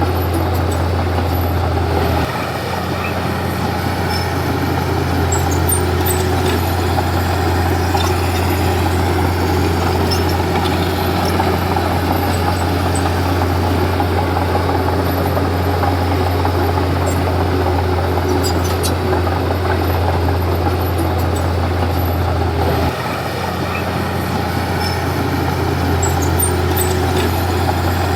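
Komatsu D31P crawler bulldozer's diesel engine running steadily, its low note shifting about two seconds in and again near the end, with scattered light clicks and clanks.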